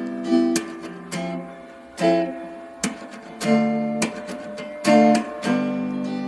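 Background music: an acoustic guitar strumming chords, with sharp strokes about every second that ring out between them.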